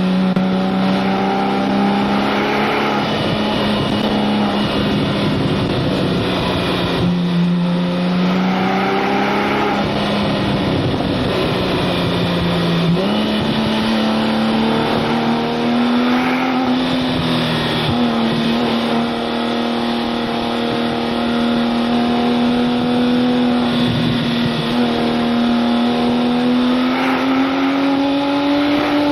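Porsche 911 Turbo S (997) twin-turbo flat-six running at steady, moderate revs, its pitch drifting slowly up and down. The pitch steps up quickly about 13 seconds in. Road and wind noise runs underneath.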